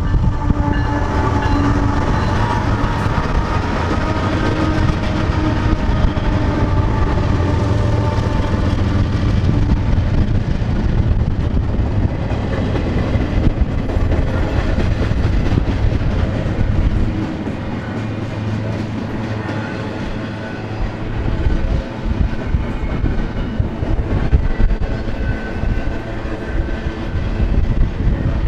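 BNSF freight locomotives sounding their horn as they pass, the horn fading out after about ten seconds, over a steady heavy rumble. Then a long double-stack intermodal train's cars roll by with steady wheel-on-rail clatter.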